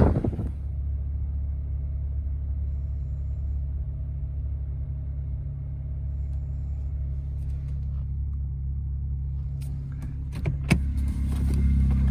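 An engine idling: a steady, low, even-pitched hum that holds the same pitch throughout, with a few sharp clicks near the end.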